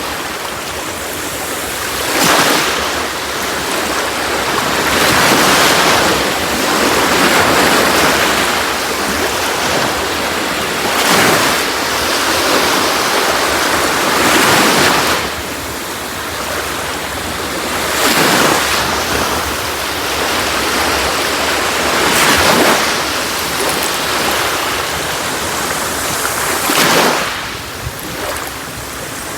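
Sea waves breaking on a beach, one surge of surf after another every few seconds over a steady wash of water.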